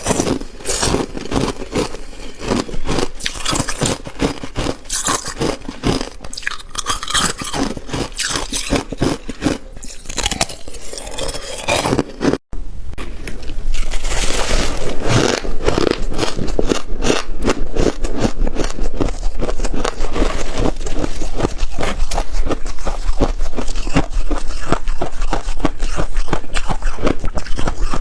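Freezer frost being bitten and chewed close to the microphone: dense, irregular crunching. It breaks off for an instant about twelve seconds in, then comes back louder and denser.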